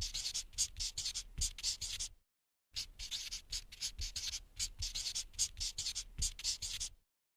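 Pencil scratching on paper in quick back-and-forth shading strokes, about five a second, breaking off twice into dead silence.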